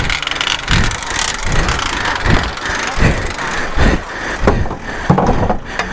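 Off-road 4x4 engine running unevenly, with irregular rumbling pulses under a constant noisy wash.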